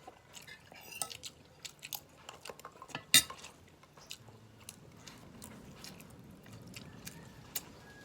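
Eating utensils clicking and scraping against a plate, with one sharp clink about three seconds in, then soft chewing.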